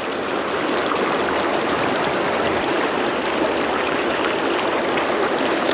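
Creek water running steadily over a shallow riffle, a constant rushing noise.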